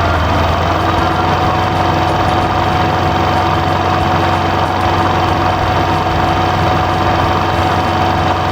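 Remote-controlled toy construction machine running steadily, an engine-like idle with a constant whine over a low hum.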